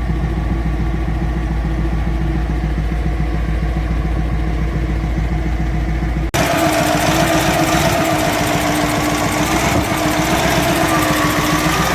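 Caterpillar 988F2 wheel loader's diesel engine running steadily while a leaking injector is being tracked down. A little over six seconds in, the sound cuts off abruptly and resumes closer and brighter, with a wavering hum.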